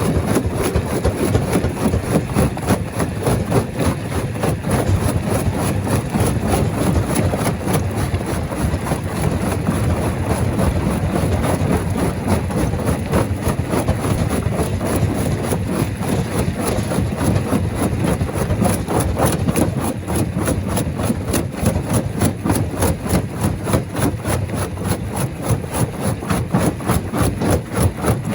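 Stone-crushing machinery running steadily: a loud mechanical drone with a fast, even pulsing.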